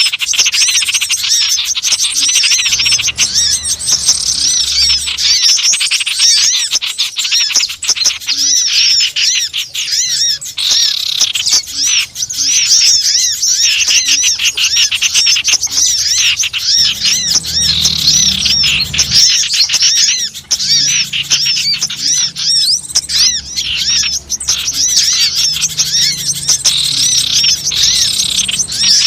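Noisy chattering of many small wild birds: rapid high chirps and twittering notes in a dense, unbroken flurry. It is a bird-lure (pikat) call recording used to draw small birds in.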